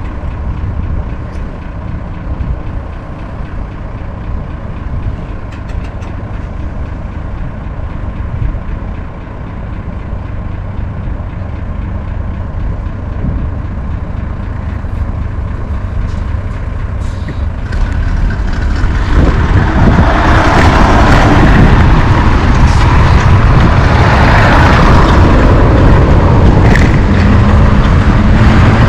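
Wind buffeting the microphone during a bike ride, a heavy uneven rumble, with a louder rushing noise building from about two-thirds in and holding to the end.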